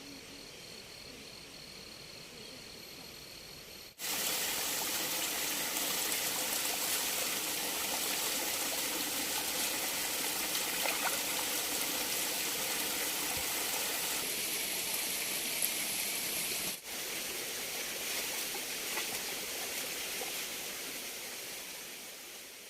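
Water running steadily in a stream. It jumps much louder about four seconds in, shifts abruptly again later, and fades out at the end.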